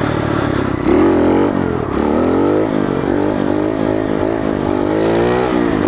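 Coolster 125 pit bike's small four-stroke single-cylinder engine revving up and dropping back several times as the throttle is worked on and off during a wheelie, the pitch rising and falling unevenly: choppy throttle control.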